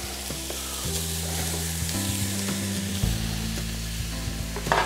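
Pork belly chunks and vegetables sizzling in hot oil in a cocotte, a steady frying hiss, with low sustained background music underneath.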